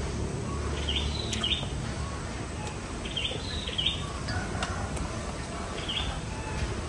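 A bird calling with short high chirps: a quick pair about a second in, another pair a little past three seconds, and a single chirp near the end, over a steady low background rumble.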